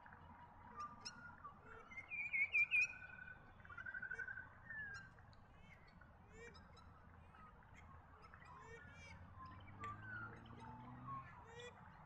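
Several wild birds calling in the open. The loudest is a short series of sharp, pulsed calls about two to three seconds in, then a brief trill about four seconds in, with scattered small chirps and whistles throughout.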